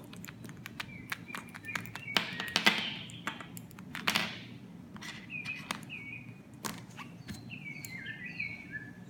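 Small pet bird chirping in short, repeated notes, mostly in the second half. Scattered sharp clicks and two brief rustles are heard along with it.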